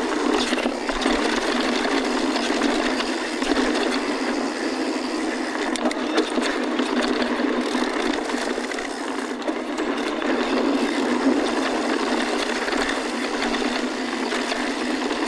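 Mountain bike ridden over rocky dirt singletrack, heard from a bike-mounted or rider-worn action camera: a steady rush of tyre and wind noise with scattered rattles and clicks from the bike.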